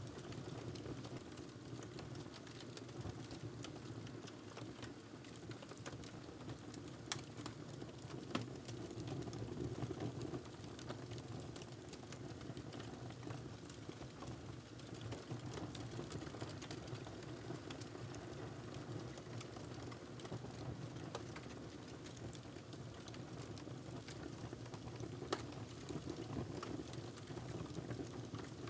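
Wood fire burning in a fireplace: a steady low rush of flames with fine continuous crackling and a few louder pops.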